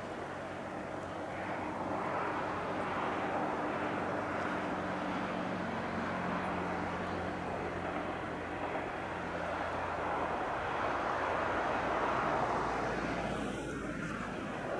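A single-car diesel railcar running past at a distance: a steady rumble of engine and wheels on rail, with a low engine drone under it. It swells twice and eases off near the end.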